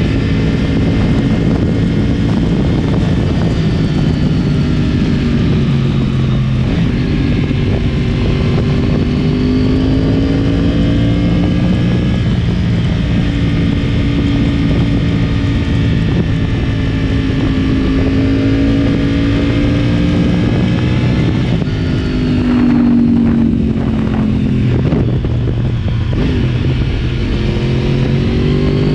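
2010 Yamaha R1's crossplane inline-four engine, decatted and breathing through an Akrapovic Y-pipe exhaust, running steadily under way, its pitch slowly rising and falling with the throttle. About three quarters of the way through the pitch drops briefly, then climbs again.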